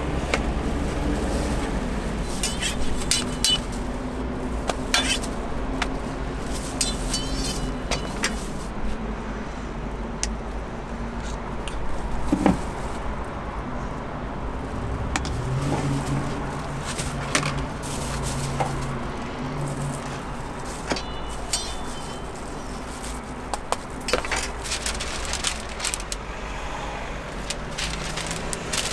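Scattered clinks and taps of utensils and dishes over a steady low hum.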